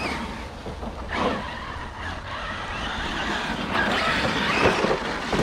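Electric RC bashing trucks driving and spinning their tyres over rough dirt, the noise surging about a second in and again later on.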